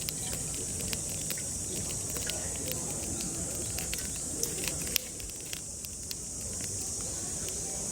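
Cicadas droning steadily in a high, even band, with scattered sharp crackles and clicks over it.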